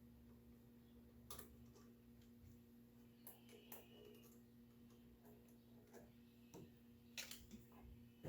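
Near silence with a few faint, scattered clicks and light taps of parts being handled as an intake coupler and hose clamp are fitted, over a steady low hum.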